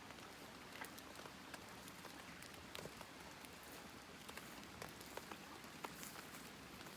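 Wood campfire crackling faintly, with scattered, irregular pops and snaps over a low hiss.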